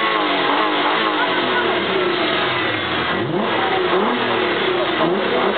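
Volkswagen Golf Mk3's swapped-in R36 3.6-litre VR6 engine revved in several short blips over idle, each rising and falling in pitch.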